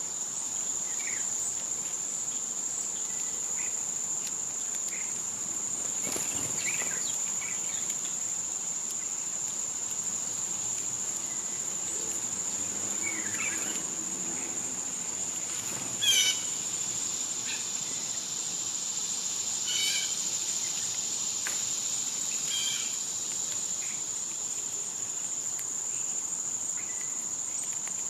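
A chorus of summer insects keeps up one steady, high-pitched drone. Short bird calls break in over it now and then, the loudest about sixteen seconds in and others near twenty and twenty-three seconds.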